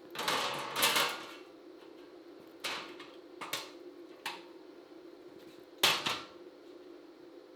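Irregular clanks and knocks of sheet-metal work, a quick cluster in the first second and then four single strikes spread over the next five seconds, over a steady machine hum.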